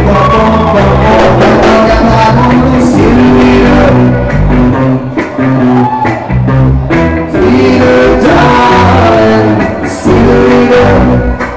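Live band playing a reggae song, with singing over guitar and bass.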